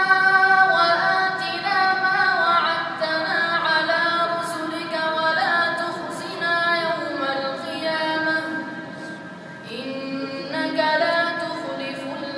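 A young man's solo voice reciting the Quran in melodic tajwid style, holding long, high, ornamented notes that glide and waver. One phrase winds down around nine seconds in and a new one begins a second later.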